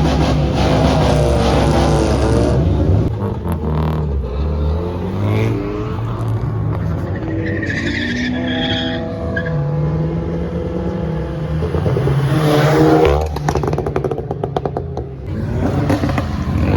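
Car engines at a car meet revving and driving past, the engine note climbing in pitch several times, most strongly about halfway through and again near the three-quarter mark.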